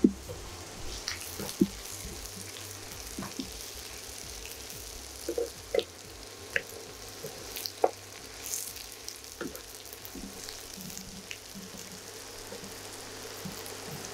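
Sliced shallots and dried red chillies sizzling steadily in sesame oil in a kadai, frying towards golden brown. A wooden spatula stirs them, with sharp taps and scrapes against the pan every second or so.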